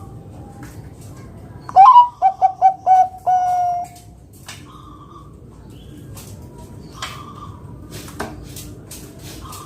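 Zebra dove (perkutut, Bangkok type) singing one cooing phrase about two seconds in. It opens with a rising note, runs through five quick short coos, and ends on a longer held coo. Faint steady background noise fills the rest.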